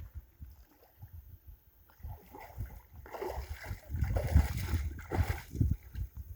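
Irregular splashing and sloshing of water mixed with low knocks, quiet at first and getting louder about three seconds in.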